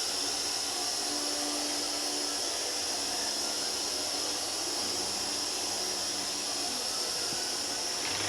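A steady, even hiss with no changes in pitch or rhythm.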